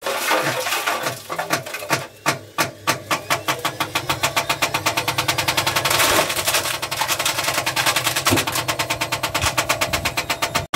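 Whirlpool washing machine knocking hard and rhythmically as it spins under destruction, the blows starting ragged and growing quicker and more regular as the spin speeds up.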